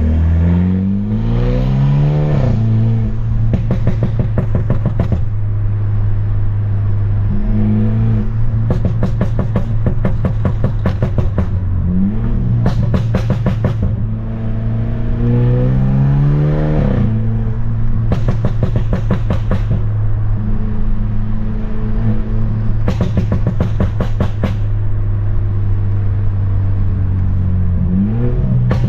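Straight-piped, tuned BMW F30 328i turbocharged four-cylinder pulling hard. Its note climbs steeply through the revs and drops back at each shift. Between pulls the exhaust gives several bursts of rapid crackling pops and bangs off throttle, a sign of the tune's pops-and-bangs setting.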